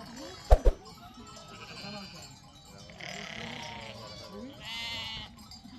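Two sharp knocks about half a second in, then livestock bleating: two calls, about three and five seconds in.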